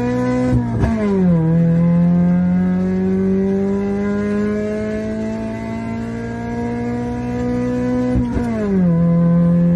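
Honda Civic VTi's D16Y8 1.6-litre SOHC VTEC four-cylinder, with ported head and intake manifold, heard from inside the cabin at full throttle. The engine note climbs, drops sharply at an upshift about a second in, climbs slowly again in the higher gear, and drops at a second upshift near the end.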